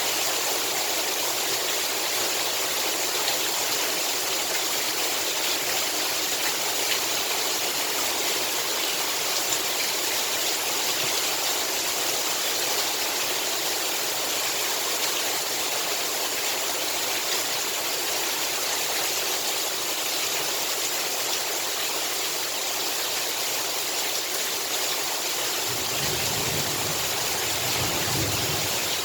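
Heavy rain pouring steadily, an even hiss. Near the end a low rumble joins in.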